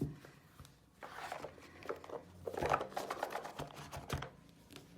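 Light rustling and small taps of a tarot card deck being handled and gathered up, in irregular spurts from about a second in until near the end.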